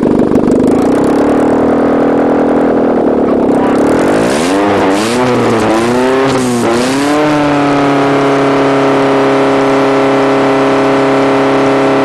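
Mazda car engine revved hard: held at high revs, dropping back, blipped up and down several times, then held steady at high revs. The exhaust manifold runners are glowing red hot.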